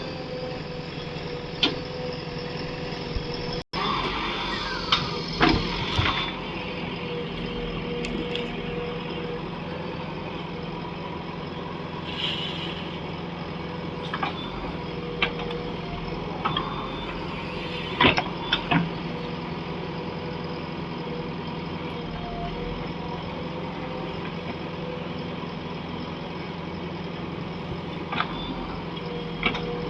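Heavy diesel machinery running steadily at a working pace, broken every few seconds by sharp metal clanks and knocks. The sound drops out for an instant about four seconds in.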